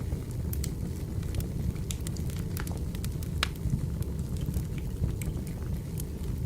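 Wood fire crackling: scattered sharp pops and snaps over a steady low rumble of burning logs, with one louder pop about three and a half seconds in.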